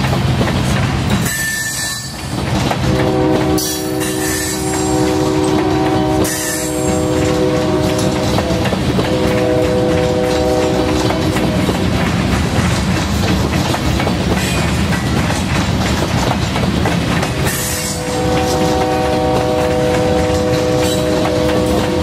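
Loaded covered hopper cars of a freight train rolling past with steady wheel-on-rail rumble and clatter. A multi-chime locomotive horn sounds from the head end in long blasts, from about 3 s to 11 s with a short break, and again near the end, with a few brief high wheel squeals.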